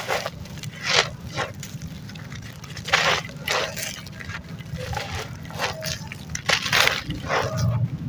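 Gritty sand-cement chunks, dry and wet, crumbled by hand: a series of short crunches, some crisp and some squishy.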